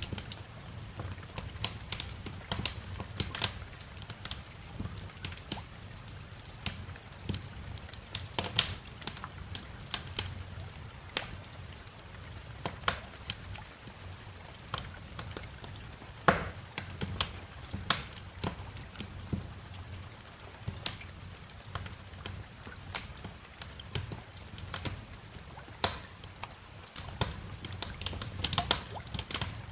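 Wood fire crackling in a fireplace: irregular sharp pops and snaps, several a second, over a faint low rumble.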